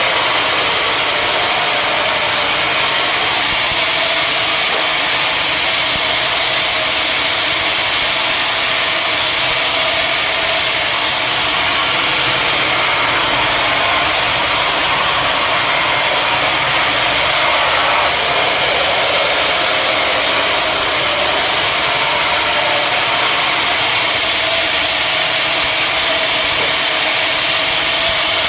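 Sawmill saw running through acacia wood: a loud, even mechanical whir that stays steady with no breaks.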